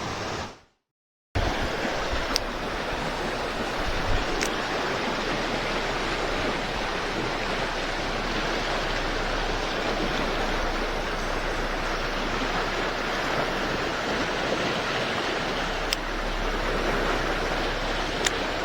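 Steady rush of a mountain stream's flowing water, cutting out completely for about half a second near the start. A few faint ticks stand out over it.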